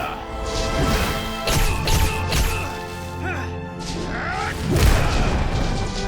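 Dramatic orchestral film score under a run of loud crashes and booms from action sound effects. Several impacts come close together in the first half, and the biggest boom comes near the end.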